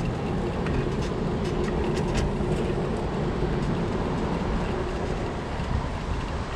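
Steady rumble of a passing vehicle mixed with street noise, with scattered light clicks and rattles.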